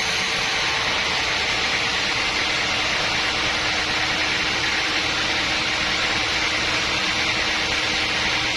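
Sawmill machinery running steadily: an even mechanical hiss with a faint low hum, with no change in level.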